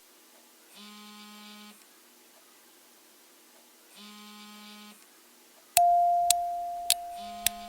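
Electronic beeps: two buzzy beeps about a second long each, then about six seconds in a sudden ringing tone that fades slowly, with sharp ticks about every half second.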